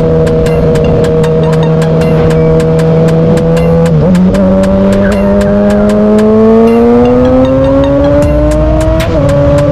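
Motorcycle engine running while riding, its pitch steady at first, dipping briefly about four seconds in and then climbing steadily as it accelerates, with another brief dip near the end.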